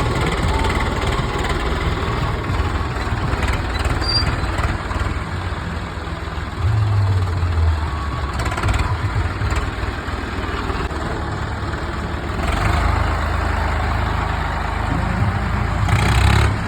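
Tractor diesel engine running steadily while it drives a manure-loading attachment. Its note grows louder for a while about seven seconds in, and again from about twelve seconds in to a peak near the end.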